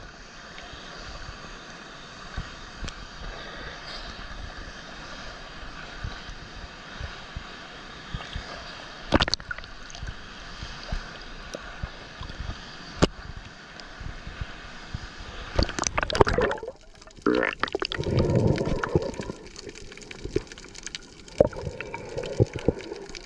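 Steady rush of falling water from a waterfall, with scattered sharp clicks and a louder stretch of rumbling and knocks about two-thirds of the way through.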